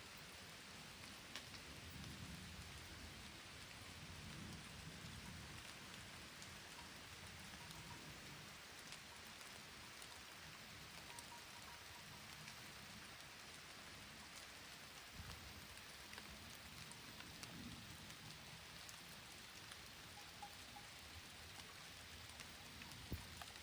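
Faint, steady rain falling on leaves and the ground at night, with many small drop ticks scattered through it.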